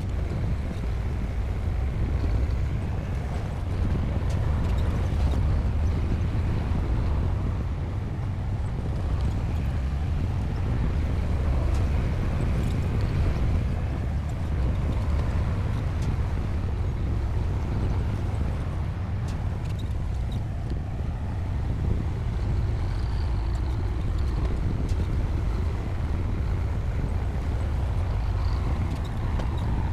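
Bulldozer's diesel engine running steadily at work, a deep continuous rumble that swells and eases slightly.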